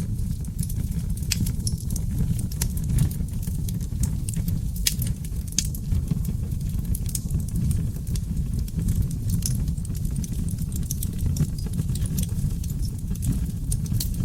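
Oak log fire in a fireplace burning with a steady low roar, with frequent irregular crackles and sharp pops of the wood.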